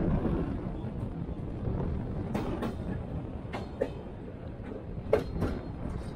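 Passenger train carriage rolling along with a steady rumble, its wheels giving several sharp clicks over rail joints and points, some of them in quick pairs, heard from an open carriage window.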